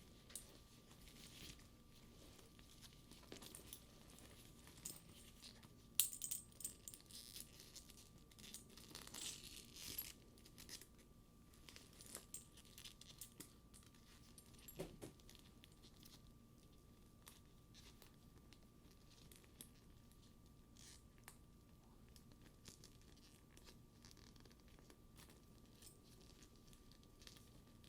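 Metal buckles and studs on a faux leather purse clinking and tapping lightly together as the straps are handled, with soft leather rubbing. The taps come thickest in the first third, the sharpest one about six seconds in, then thin out to scattered light clicks.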